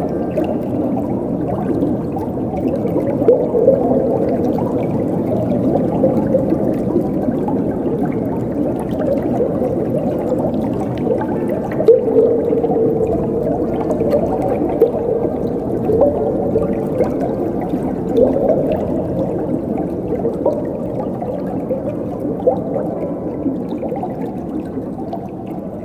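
Flowing water gurgling and bubbling steadily, low and full, with small quick flicks of pitch in the bubbling.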